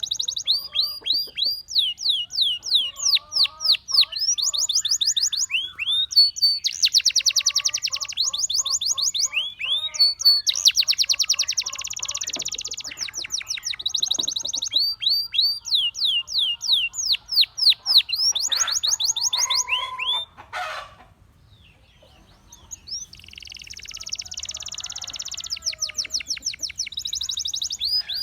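Gloster canary singing: fast runs of high whistled notes that sweep downward, broken by rapid rolling trills, with a short lull about three-quarters of the way through.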